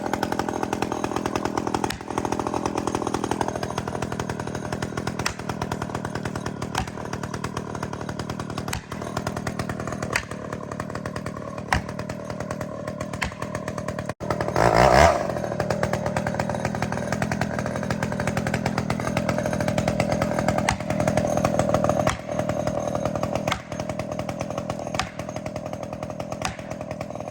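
Two-stroke chainsaw running steadily. Just past halfway the sound cuts out for an instant, then comes back with a short, louder burst.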